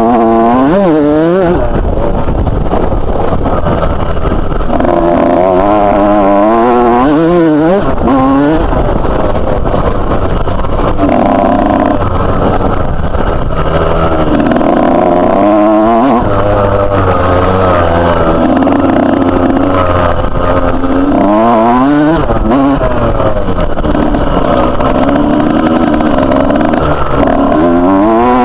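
Two-stroke motocross bike engine being ridden hard, its pitch climbing in sweeps and dropping as it accelerates and shifts gear, with steadier stretches in between.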